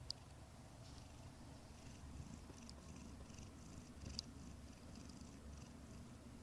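Domestic cat purring softly and steadily, the purr swelling and easing with each breath; a contented purr. A small click about four seconds in.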